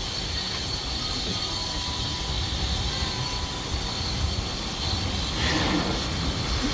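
Steam-hauled heritage train running along the track: a steady low rumble from the wheels and rails, with a faint high-pitched wheel squeal. A brief rush of noise comes about five and a half seconds in.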